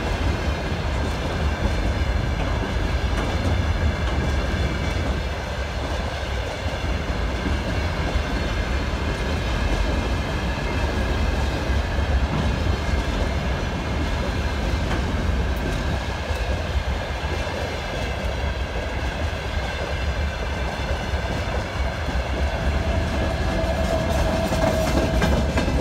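Freight train of open-top gondola wagons rolling past close by, a steady rumble of wheels on the rails. A brief higher ringing tone comes in near the end.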